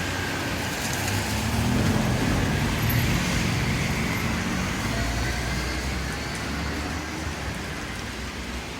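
Road traffic: a motor vehicle passes, its low engine and tyre rumble loudest about two to three seconds in and then fading, over a steady hiss.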